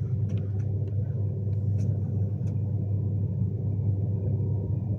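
Steady low rumble of a Class 390 Pendolino electric train running at speed, heard from inside the carriage, with a few faint clicks.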